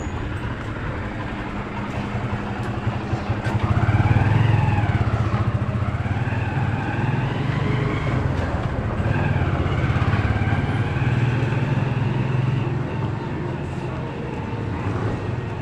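Engine of a motorcycle tricycle running, a steady low drone that grows louder about four seconds in and eases near the end.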